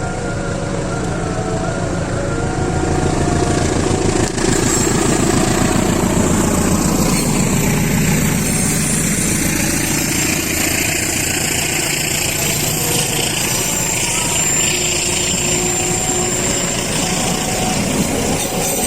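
A heavy engine running steadily, growing louder over the first several seconds and then holding.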